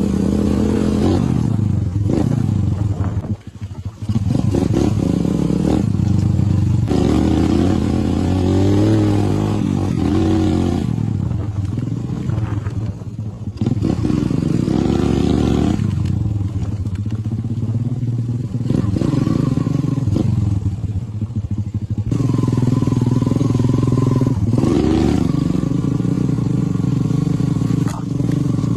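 Motorcycle engine running under way, the revs rising and falling again and again as the rider speeds up and eases off, with a brief drop about three seconds in.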